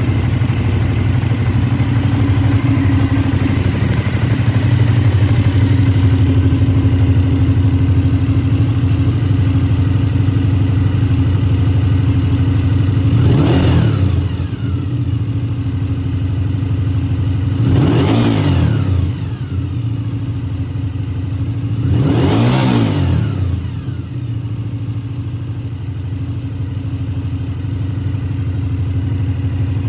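Suzuki TL1000S's 90-degree V-twin idling steadily, blipped three times with the throttle about four to five seconds apart. Each rev rises and falls back to idle within about a second.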